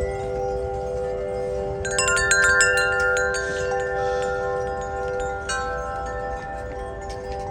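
Tubular wind chimes ringing in gusty wind: a few lower tones ring on through, with a flurry of higher strikes about two seconds in and a few more past the middle. Wind rumbles underneath.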